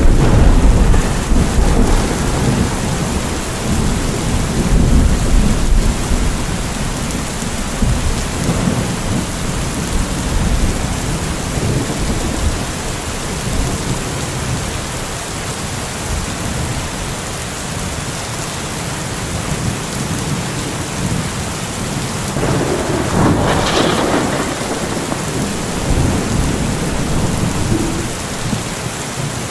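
Steady heavy rain with thunder: a low rolling rumble through the first several seconds, and a sharper, brighter thunderclap about 23 seconds in.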